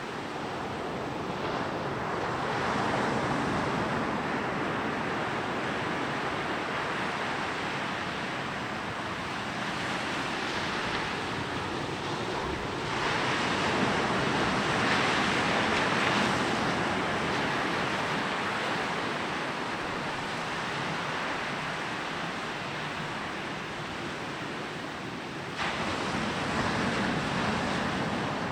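Waves rolling in and breaking on a beach: a steady wash of surf that swells louder twice and rises again sharply near the end.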